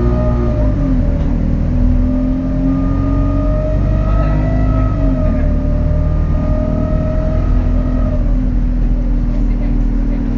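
Alexander Dennis Enviro200 bus's diesel engine pulling, with a whistling tone that rises and falls gently and fades out near the end: the bus's unusual turbo whistle.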